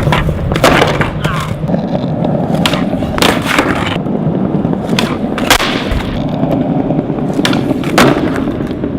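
Skateboard rolling on wet paving: a continuous rumble of the wheels, broken by several sharp clacks, the loudest about halfway through.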